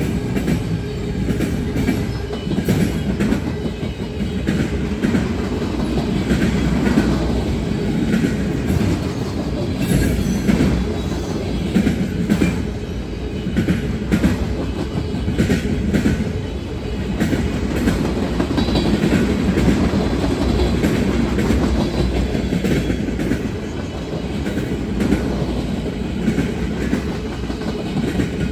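Loaded freight train of flatcars carrying military vehicles rolling past: a steady low rumble of steel wheels on the rails, with frequent irregular clicks and clanks as the wheels cross rail joints.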